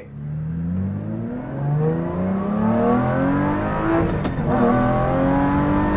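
Car engine accelerating, its pitch climbing in repeated short rising steps as if shifting up through the gears, with a brief click about four seconds in.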